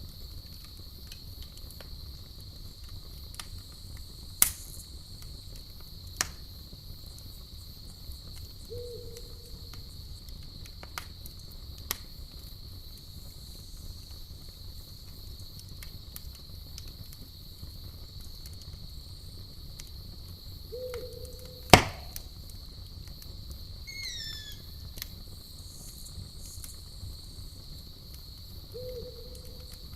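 Campfire crackling, with a few sharp pops, the loudest about twenty-two seconds in, over a steady, even night-insect chorus of crickets. Three short low calls come at roughly even spacing, and a brief falling chirp comes near the end.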